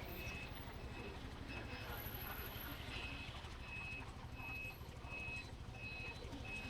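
A vehicle's electronic warning beeper sounds a short high beep about three times every two seconds over the low rumble of engines in street traffic.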